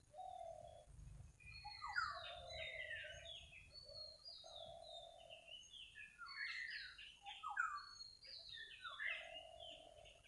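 Several wild birds calling and singing together: a busy mix of quick chirps and whistled notes sliding up and down, over a repeated low, held note about a second long.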